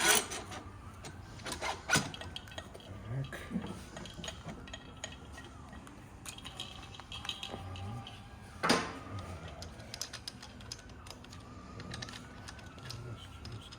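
Scattered metal clinks and knocks of a motorcycle front fork leg being fitted into the triple clamps, the loudest about two seconds in and nearly nine seconds in.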